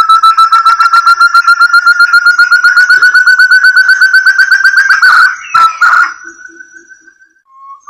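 Forest partridge (burung terung, puyuh hutan) call played as a bird lure: a fast run of clear whistled notes, about nine a second, slowly rising in pitch. It breaks off about five seconds in into a brief noisy patch with a couple of knocks, then one drawn-out rising whistle.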